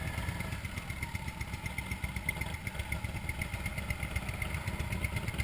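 Motorcycle engine running steadily with a low, rapid pulsing and no revving, a faint even ticking above it.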